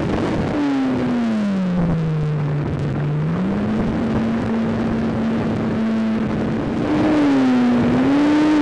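A motor runs with a steady hum that sinks in pitch, rises again and holds, then climbs and wavers near the end, over heavy wind rushing across the microphone.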